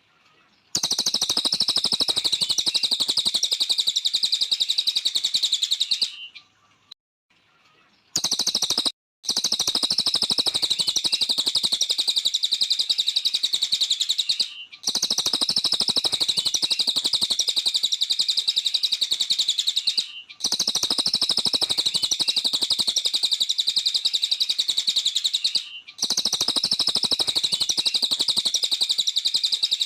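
Cililin bird singing vigorously: a rapid, high twittering trill in long unbroken bouts of about five to six seconds, with brief pauses between them.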